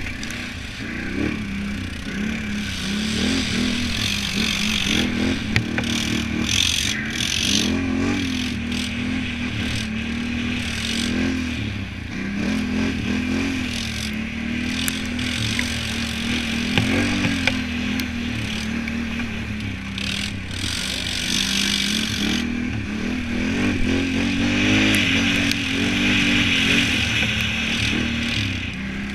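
Can-Am Renegade 1000 ATV's V-twin engine being ridden hard, revving up and down again and again, with a few sharp ticks over the engine.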